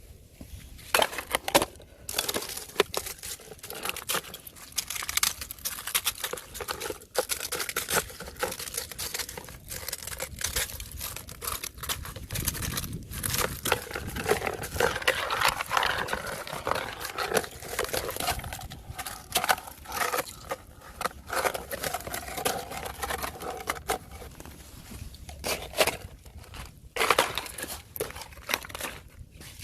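Thin fresh ice being broken and crunched: a dense, irregular run of sharp cracks, snaps and crackling, starting about a second in.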